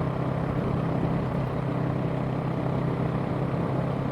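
Small Yamaha YZF parallel-twin sport bike's engine running at a steady pace while riding, with rumbling wind noise on the microphone.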